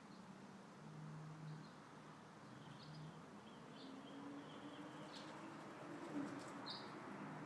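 Faint steady wind noise with a handful of short, high bird chirps scattered through the second half, and a low steady hum underneath.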